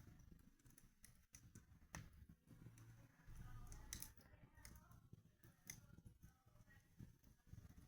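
Wood fire crackling faintly in a fireplace: scattered sharp pops, roughly one a second, over a low steady rumble.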